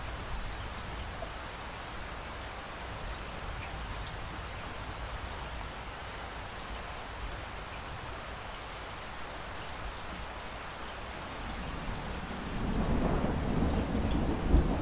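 Steady rain falling, with a low rumble of thunder building near the end and swelling to its loudest just before the close.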